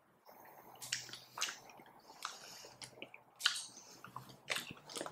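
Chewing a sweet: soft, irregular wet mouth clicks and smacks.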